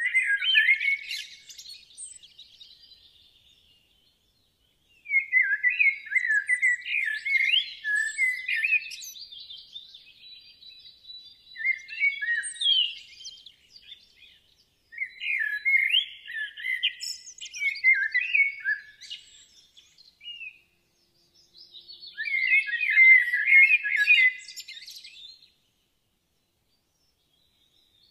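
Birdsong: a small bird's high chirping and twittering phrases, coming in four bouts of a few seconds with dead silence between them.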